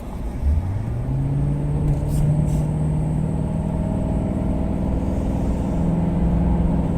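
A vehicle's engine accelerating: its pitch climbs steadily over the first two seconds or so, then holds level under a steady drone, stepping up slightly near the end.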